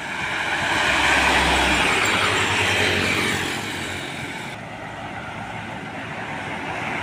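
Road traffic passing close by: a large vehicle's engine and tyre noise swells during the first couple of seconds and fades away, then the next vehicle approaches near the end.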